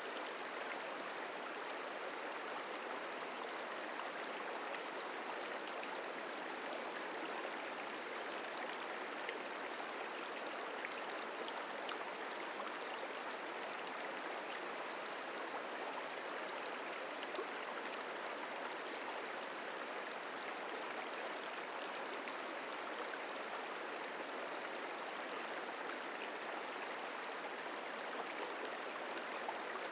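Merced River flowing: a steady, even rush of moving water with no change in level.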